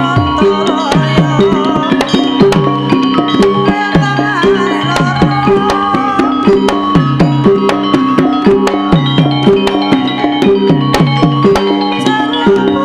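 Javanese gamelan music with kendang drum strokes keeping a steady, repeating rhythm under pitched metallic tones, and a wavering melody line above.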